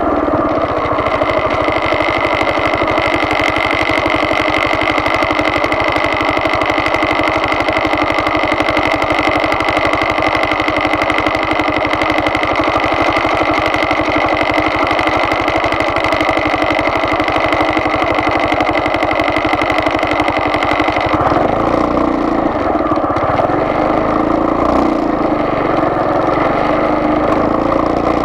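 A vehicle engine running steadily under way, its note changing about 21 seconds in.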